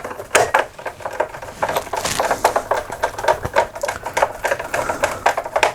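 Screwdriver driving a screw into the plastic case of a Rexel LV250HS laminator, a rapid, irregular run of clicks and scrapes.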